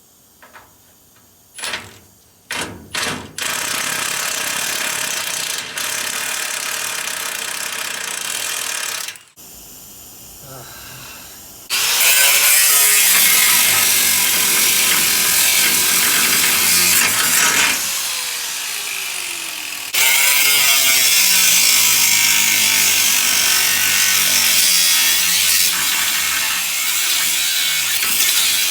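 Angle grinder with a cutoff wheel cutting through rusted nuts whose heads have rounded off, too seized to turn with a wrench. A few short bursts come first, then long runs of cutting, loudest in the second half, with the pitch wavering as the wheel is pressed into the metal.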